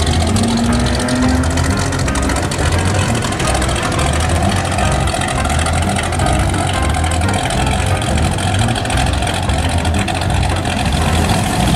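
Engine of a 1966 Chevrolet full-size hardtop idling through its exhaust, a steady low pulsing that holds even throughout.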